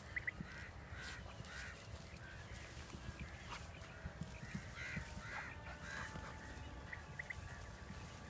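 Birds calling outdoors: a scattered series of short, arching calls, some in quick pairs, over a steady low rumble.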